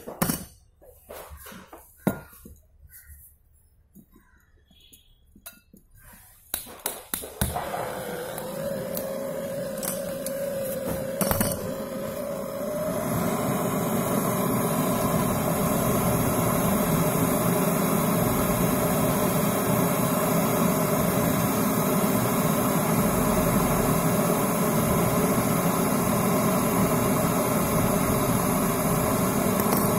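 A few sharp clinks and knocks of metal tools being handled, then about seven seconds in a gas brazing torch lights and burns with a steady rushing noise that swells and settles at full strength from about thirteen seconds on, heating a refrigerator compressor's pipe joint.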